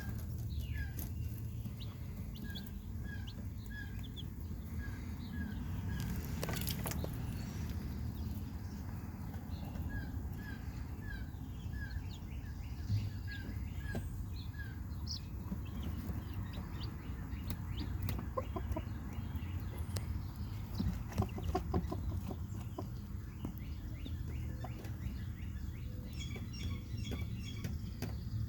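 Broody hen clucking softly to her newly hatched chicks, while the chicks peep in runs of short high notes, about two a second.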